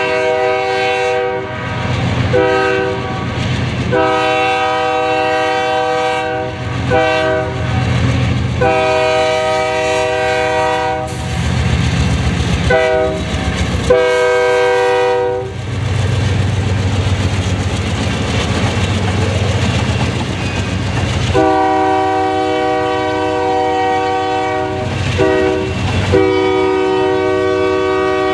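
Union Pacific freight train's locomotive air horn blowing a string of long and short blasts, with a pause of several seconds in the middle, over the low rumble of three GE Dash 9-44CW diesel locomotives passing. Toward the end, loaded rock hopper cars clatter by on the rails.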